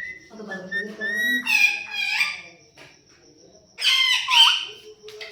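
Pet parrot calling: a run of high calls whose pitch bends, over the first two seconds or so, then another burst about four seconds in.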